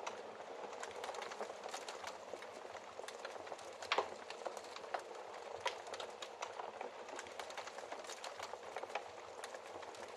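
Wood fire crackling in a fireplace: a steady hiss with frequent small pops, and a sharper pop about four seconds in.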